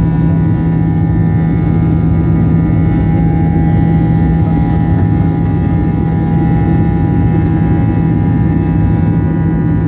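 Jet engines of an Airbus A320-family airliner running at takeoff power: a loud, steady drone with several constant tones above it.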